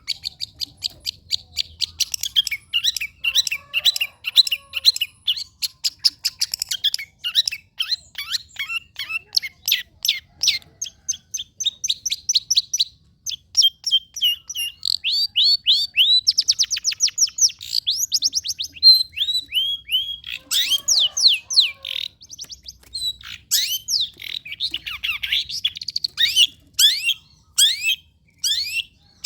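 Long-tailed shrike (cendet) singing a fast, varied song of rapid high chirps and short downward-sweeping notes, several a second, changing phrase every few seconds.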